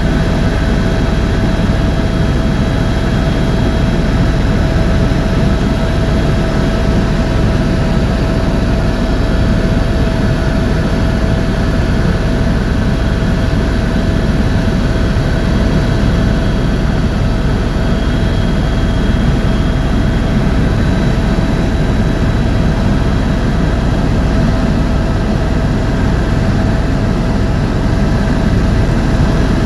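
Tour helicopter in steady cruise heard from inside the cabin: a loud, unchanging low drone of engine and rotor noise with a constant whine riding over it.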